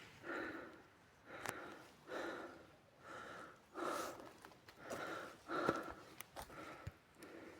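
A person breathing hard and panting, about one breath a second, with a few light clicks of steps among them.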